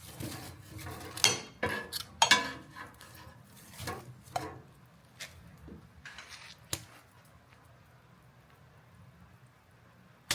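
Light clattering and scraping of small hard objects: a dense run of knocks and rubs in the first five seconds, a few scattered clicks after, then quiet.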